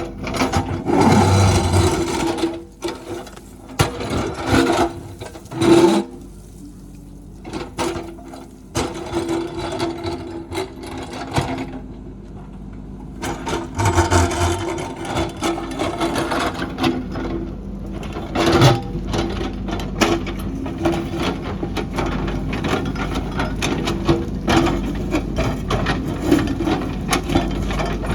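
JCB backhoe loader working: a steady engine hum under repeated scraping, clattering and knocking. The sound drops quieter for several seconds partway through, then picks up again.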